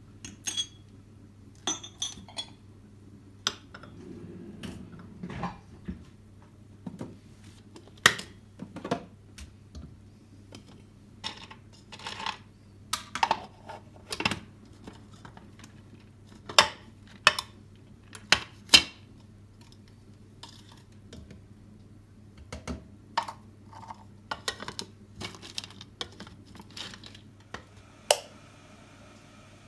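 Dishes and cutlery clinking and knocking in kitchen handling: many short, sharp clinks at irregular intervals, some louder than others, over a low steady hum.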